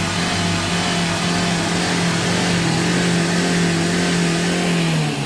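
Car engine held at steady raised revs during a decarbonising service, then falling back toward idle about five seconds in.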